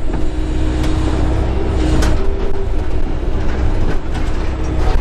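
Excavator's diesel engine running steadily, with a few knocks over it, the sharpest about two seconds in.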